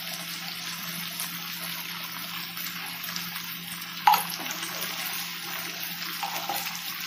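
Potato cubes and freshly added ground spices frying in hot oil in a metal kadai, a steady sizzle, with one sharp knock about four seconds in.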